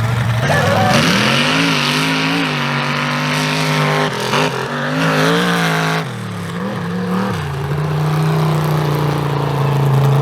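Mega mud truck engine revving hard, its pitch climbing and wavering for several seconds with a rushing hiss over it, then dropping back and settling to a steady idle about seven seconds in.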